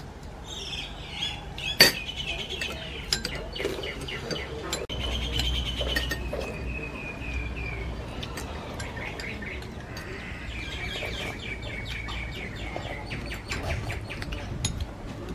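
Birds chirping in repeated trilled series. A single sharp clink about two seconds in, a spoon against a ceramic bowl.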